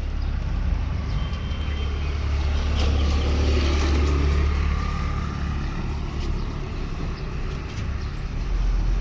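Low rumble of a passing road vehicle, swelling between about three and five seconds in.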